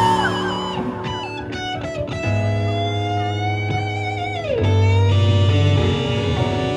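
Live rock band playing, led by electric guitar holding long notes with vibrato, with a downward bend about four and a half seconds in, over steady bass guitar notes.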